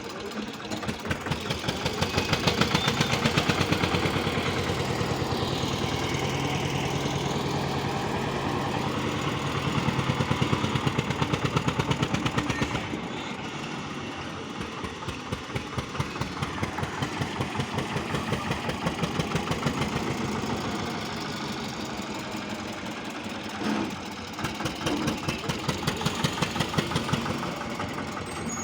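Swaraj XT 744 tractor's three-cylinder diesel engine running, revving up and easing back several times, with louder stretches a few seconds in, around the middle, and near the end.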